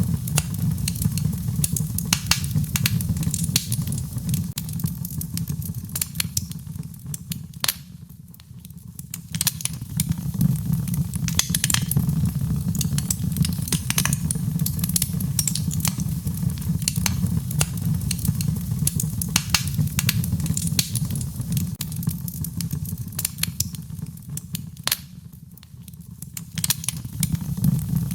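Wood fire in a fireplace crackling, with irregular sharp pops and snaps over a steady low rumble. The crackling thins out and quietens briefly twice.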